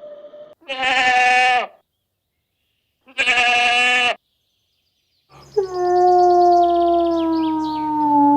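Two short, wavering bleats about two seconds apart. After a pause, a longer steady call starts about five seconds in and slides slightly down in pitch over a low hum.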